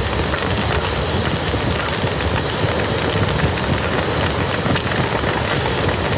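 Campfire crackling with many small irregular pops, over the steady rush of a flowing river.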